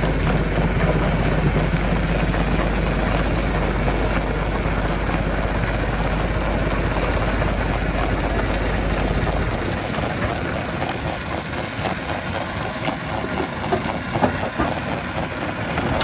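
A heavy engine running steadily, its deep low rumble dropping out about ten seconds in. Irregular knocks and clatter follow, the loudest near the end.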